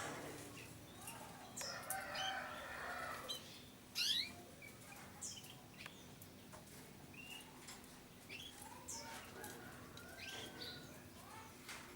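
Canaries chirping and twittering: many short, quick whistled notes and trills overlapping from several birds, with one louder sound about four seconds in.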